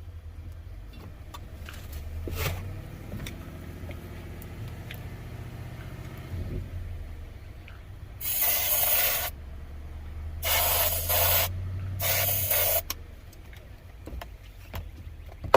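A 1985 Four Winns 170 Horizon's engine cranked by its starter for about four seconds, rising in pitch, then stopping without catching: it is not firing. After that come three short bursts of aerosol spray, each about a second long, over a steady low hum.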